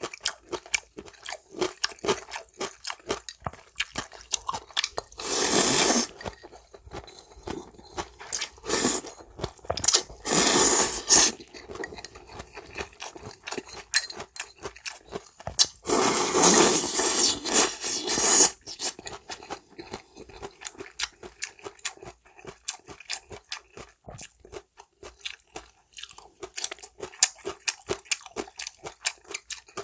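Close-miked eating of janchi guksu, a Korean noodle soup: steady wet chewing with crisp crunches, broken by three long slurps of noodles and broth about five, ten and sixteen seconds in.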